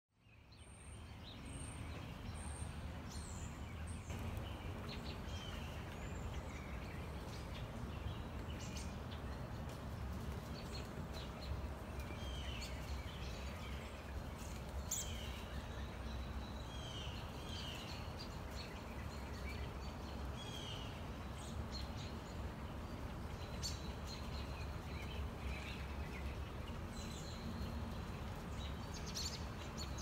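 Wild birds calling over a steady low background rumble: many short, downward-curving chirps scattered through, with a few very high, thin notes near the start.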